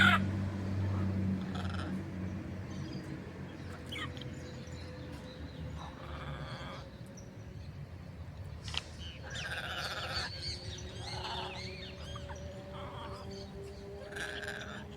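Macaws giving harsh squawks: a few separate calls, each about a second long, spread through the clip, with a low engine hum of passing traffic in the first second or so.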